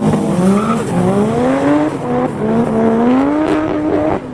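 Toyota Supra sports car engine revving hard. Its pitch climbs in long sweeps, dips briefly about two seconds in, then climbs again.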